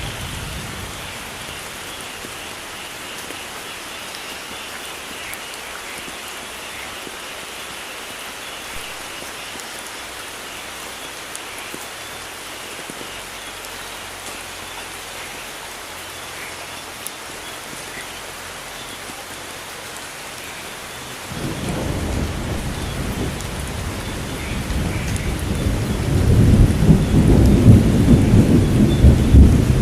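Steady heavy rain hissing. About two-thirds of the way in, a low rolling rumble of thunder comes in suddenly and grows louder toward the end.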